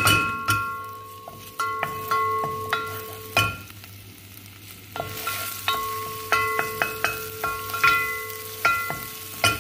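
Minced aromatics sizzling in hot olive oil in a pot as a wooden spoon stirs them around. Background music of ringing, bell-like notes plays over it.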